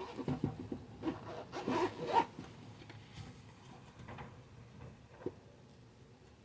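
Short scraping and rustling handling sounds in the first two seconds or so, as small items are handled while earrings are looked for, then a few fainter clicks, one sharper about five seconds in.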